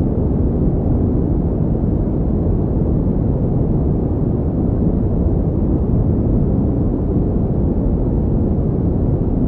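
Steady synthetic pink noise: a deep, even hiss with little treble and an unchanging level.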